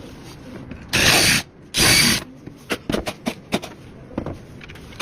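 Two short, loud bursts of hiss-like noise, then a quick run of sharp mechanical clicks, from hardware and tools at work during a door hinge installation.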